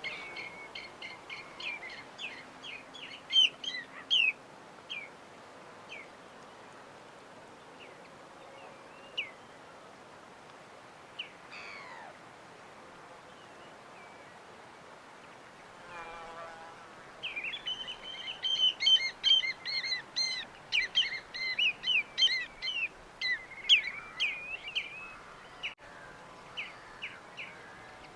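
Small birds chirping in quick runs of short high notes, with one falling whistle near the middle and a long stretch of busy chirping in the second half, over a steady background hiss.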